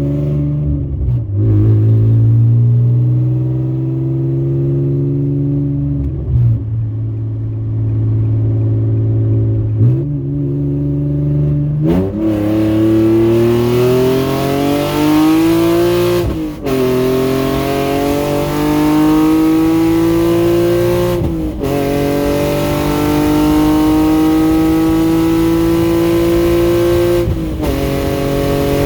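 Exhaust of a 2020 Nissan 370Z's 3.7-litre V6, running through long-tube headers and a catback with its mufflers cut off. It runs steadily at low revs with a few brief dips for about twelve seconds. Then it pulls hard, the note climbing and dropping sharply at three upshifts.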